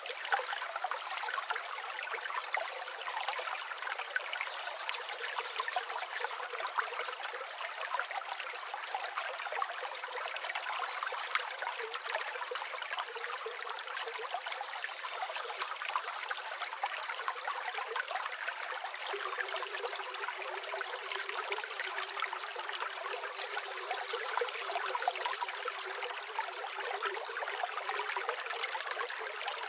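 River or stream water running steadily, an even light babbling rush with no deep rumble.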